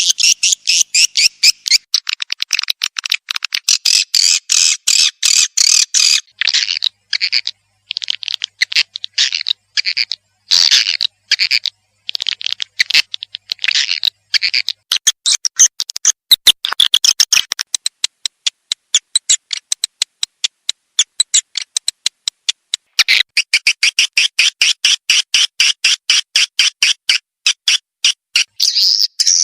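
Swiftlet lure call recording: a rapid twittering train of short, high chirps, around ten a second, in uneven runs broken by short gaps. This is the swiftlet calling sound played from nest houses to draw swiftlets in to roost.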